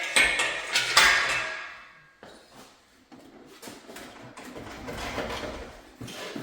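Metal clanking: two sharp clanks with a ringing tail about a second apart, then a few seconds of quieter scraping and rattling as metal parts and tools are worked during the engine removal.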